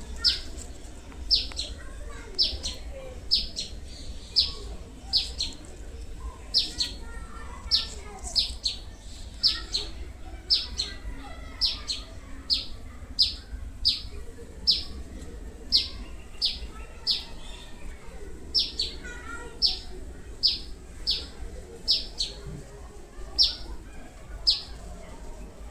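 A bird calling over and over: short, high, downward-sweeping notes, often in pairs, about one and a half a second.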